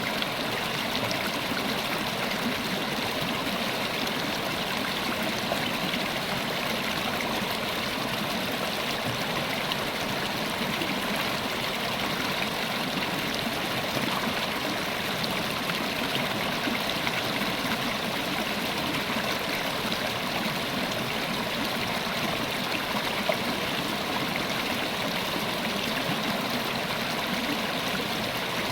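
River water flowing steadily over rocks, a continuous rushing and burbling with no change in level.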